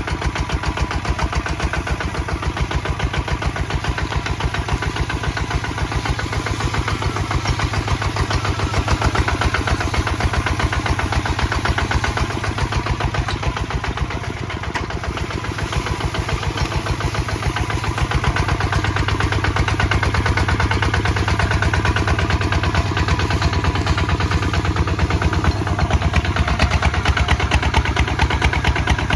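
Kubota ZT 155 DI single-cylinder diesel engine running steadily while plowing, with a fast, even knock. It eases slightly around the middle and pulls a little louder through the second half.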